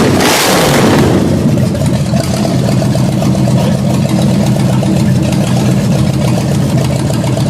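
A 1976 Ford Landau's 302 small-block V8, freshly restored, revving loudly and then dropping back to a steady idle about a second in.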